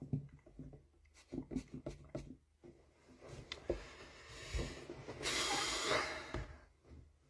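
Quiet rustling and small handling noises close to a phone's microphone, with a breathy hiss lasting about a second, some five seconds in.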